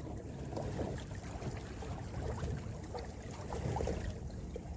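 Water lapping and splashing against the hull of a sailing canoe under way, over a steady low wind rumble on the microphone.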